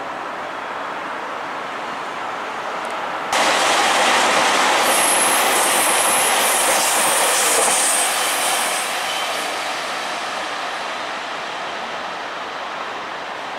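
Super Hakuto limited express, a HOT7000-series diesel train, running past on the rails: a steady rush that comes in suddenly a few seconds in, with a high-pitched wheel squeal near the middle, then fades away.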